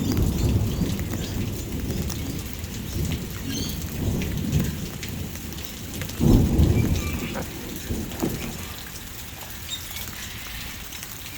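Thunder rumbling over steady rain, with a louder rumble about six seconds in before it dies away, leaving the rain falling.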